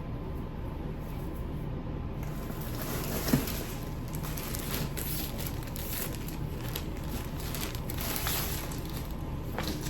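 Rustling and crinkling as a blouse and its packaging are handled, starting about two seconds in, with a single sharp knock a little after three seconds, over a steady low hum.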